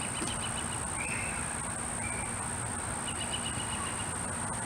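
Outdoor ambience: a steady high-pitched insect drone with a couple of short, rapid chirping trills, over a low, even background hiss.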